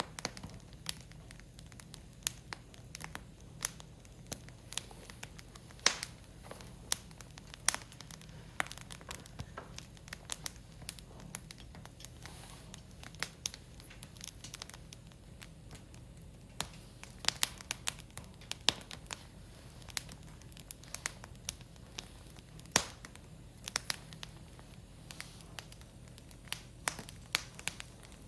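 Firewood crackling and popping as it burns in an open fire, with irregular sharp pops, a few of them much louder than the rest.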